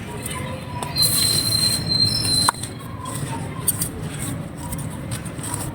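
Dry clay crumbling under light pressure, with scattered crisp cracks. About a second in, a high-pitched squeal with hiss rises over it for about a second and a half and ends on a sharp crack.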